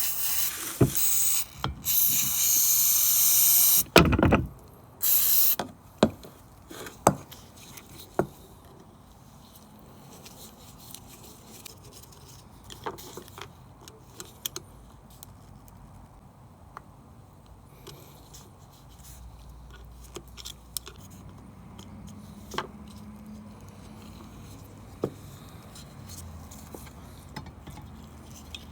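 Aerosol carburettor cleaner sprayed in several short hissing bursts into a small-engine carburettor's jets and passages during the first five seconds, with a thump about four seconds in. Afterwards only faint clicks and taps of small metal parts being handled.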